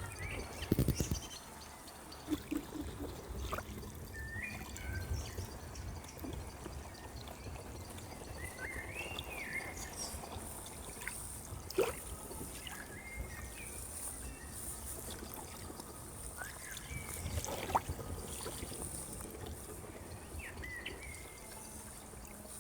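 Outdoor nature ambience: a steady trickle of water, with a small bird chirping in short warbled calls every few seconds. There are a few sharp knocks, the loudest about a second in, near the middle and near the end.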